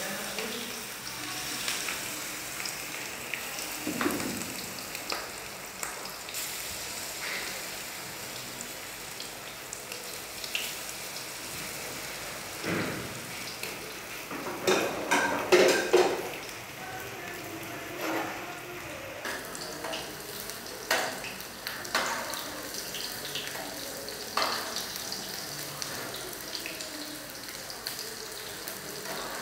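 Pieces of battered food deep-frying in hot oil in a pan, a steady sizzle, with occasional knocks and clinks of utensils against the pan and counter, loudest around the middle.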